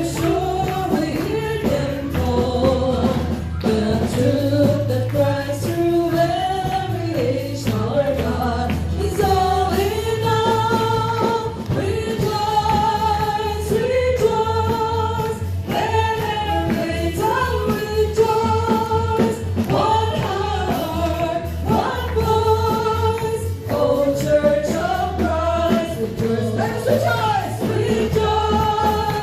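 Worship music with group singing over a steady beat and bass.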